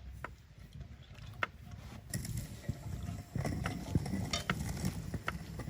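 Scattered light clicks and knocks of cookware and utensils being handled during camp cooking, over a low rumbling noise that grows louder about two seconds in.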